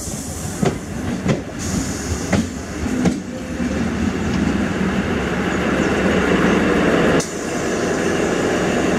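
Slow diesel passenger train rolling past: wheels click over rail joints, then the steady drone of the diesel engine builds as the power car goes by.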